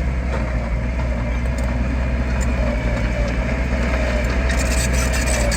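Heavy construction machine's diesel engine running steadily, a low drone with a faint wavering whine above it.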